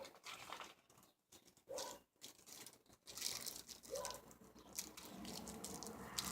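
Plastic packaging of a carburetor rebuild kit crinkling and rustling as the parts are handled, in short irregular crackles.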